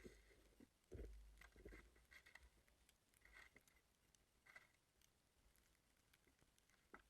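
Near silence, broken by faint scattered taps and scrapes, with a dull thump about a second in and a sharp click near the end.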